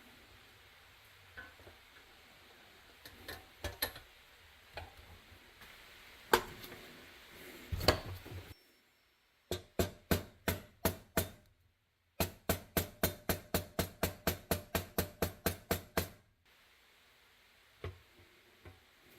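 Scattered light clicks and knocks, then two runs of quick, evenly spaced taps at about four a second, the second run about seventeen strikes long.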